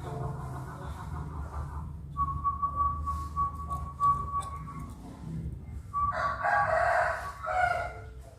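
A rooster crows once near the end, one long call that is the loudest sound here. Before it a steady high thin whine runs, breaking off about five seconds in, over a low hum.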